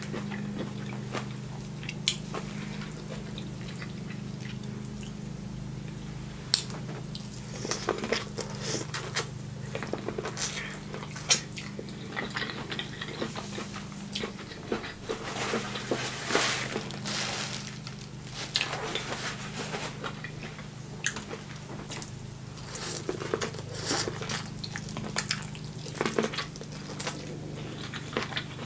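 Close-up eating sounds: wet chewing, lip smacking and sucking while eating corn on the cob dipped in melted butter, heard as scattered clicks and squishes. A steady low hum runs underneath.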